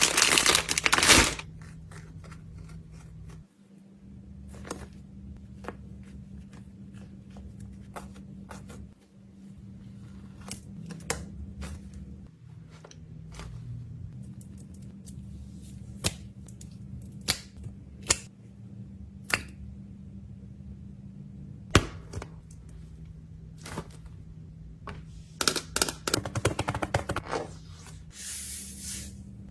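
Fidget toys being handled and packed into a container: a dense burst of crinkling and rattling at the start, then scattered light clicks and taps, and a quick run of clicks near the end.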